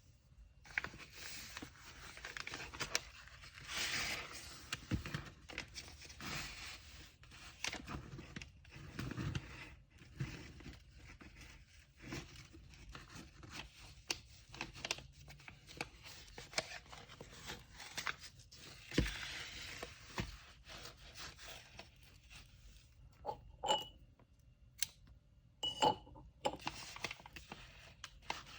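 Hands wrapping and handling paper packaging: continuous rustling and scraping of kraft paper with many small knocks and clicks, and two short ringing clinks near the end.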